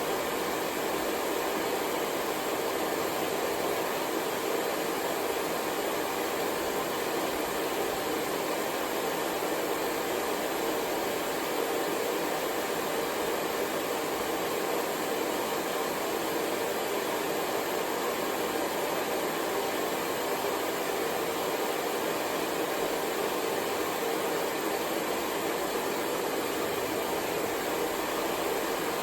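Hair dryer running steadily, a constant rush of air with a few faint steady tones from the motor, used as white noise.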